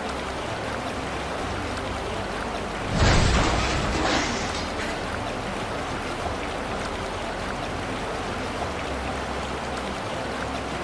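Steady noise of heavy rain and rushing floodwater, with a louder surge about three seconds in that lasts a second or two.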